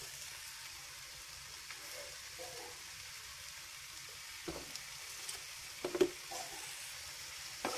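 Soya chunks and masala frying in a metal kadai, a steady faint sizzle, with a few light knocks against the pan about halfway through and near the end.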